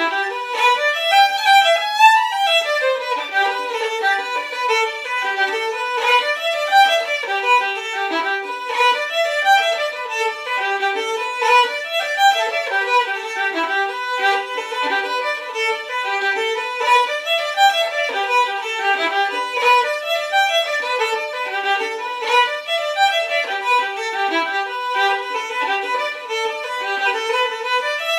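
Solo fiddle playing an Irish reel, a steady stream of quick, even notes with phrases rising and falling again every couple of seconds.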